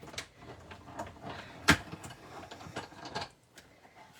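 Clicks and taps of die-cutting machine plates and a metal die being handled and pulled apart by hand, with one sharp knock just under two seconds in.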